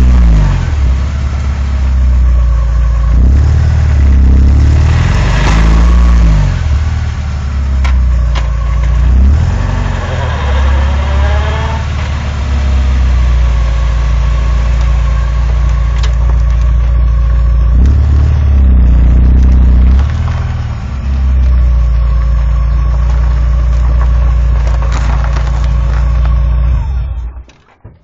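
Porsche 944 four-cylinder engine running and blipped several times, with a thin whine that rises and then holds steady; the owner wonders whether it is the driveshaft or a gearbox bearing. The engine is switched off near the end.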